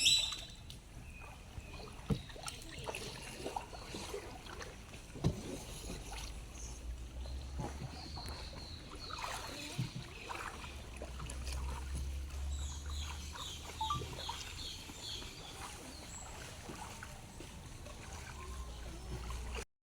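Faint river water sounds, gentle lapping and small splashes, over a low rumble on the microphone, with scattered small knocks. The sound cuts to silence just before the end.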